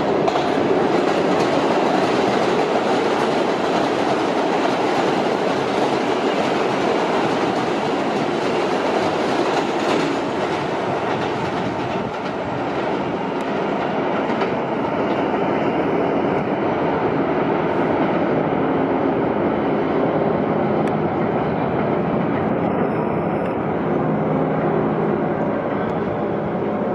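New York City Subway train running past on the IRT Broadway Line, a steady loud rumble of wheels on rail with clickety-clack over the rail joints.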